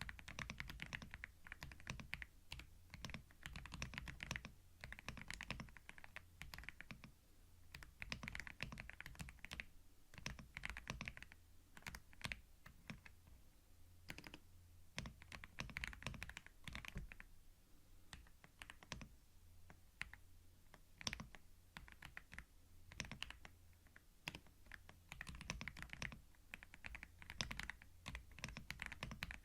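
Typing on a computer keyboard: soft, quick runs of key clicks in bursts of a few seconds with short pauses between.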